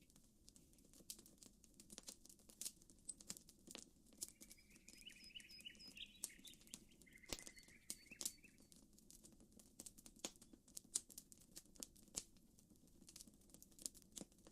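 Campfire crackling faintly, with irregular sharp pops throughout. A bird chirps briefly in a short run of notes from about four to eight seconds in.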